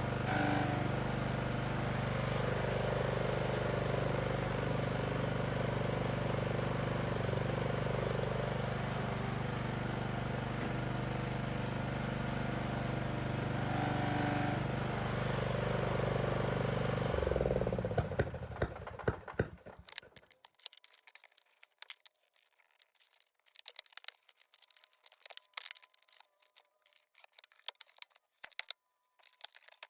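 The riding mower's replacement engine running steadily, then shut off about 17 seconds in and running down over a couple of seconds. After that come scattered small clicks and knocks.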